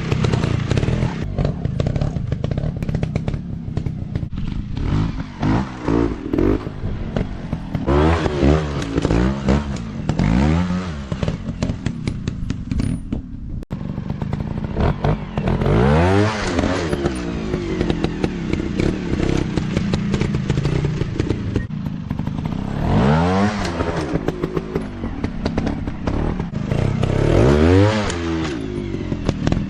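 Off-road dirt bike engines revving up and falling back in repeated bursts, with a short break about halfway through.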